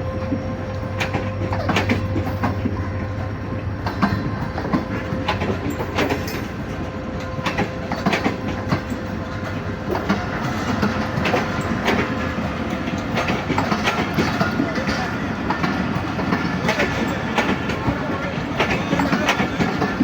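Millat Express passenger train's carriages rolling along the track: a steady rumble with many irregular clicks and clanks from the wheels and rail joints, and a thin steady whine that stops about two-thirds of the way through.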